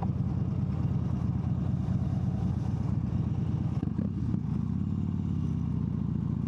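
Harley-Davidson V-twin engine running under way. About four seconds in, the engine note dips briefly, then settles at a slightly different steady pitch.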